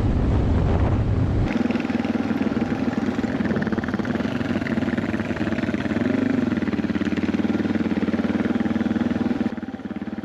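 Suzuki DR650 single-cylinder motorcycle engine running steadily, with low wind rumble on the microphone at first. About a second and a half in, the wind stops abruptly, and near the end the engine sound suddenly drops quieter.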